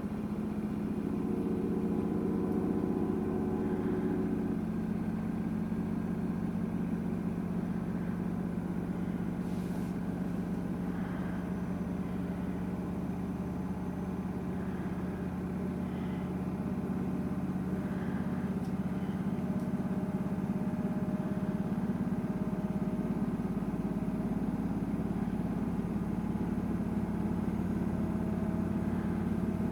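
Samsung WW900 front-loading washing machine on its Super Speed rinse, the drum spinning at a steady speed with a steady motor hum, and a few faint clicks now and then.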